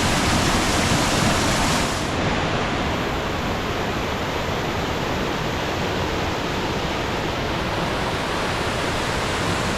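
Waterfall in heavy flood after days of rain, a loud, steady rush of falling water. The sound turns slightly duller about two seconds in.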